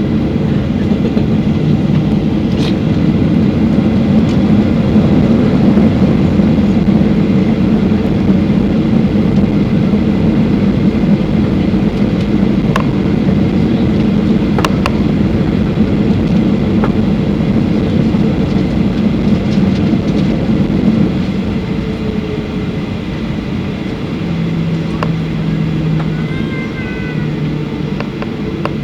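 Airliner cabin noise during the climb: the engines' steady low rumble mixed with rushing air. It eases slightly after about twenty seconds, and a low steady hum comes through near the end.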